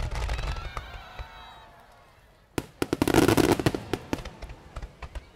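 Aerial firework shells bursting in a display finale: a boom with a low rumble at the start, then after a short lull a dense, rapid volley of bangs about two and a half seconds in, the loudest part, trailing off into scattered cracks.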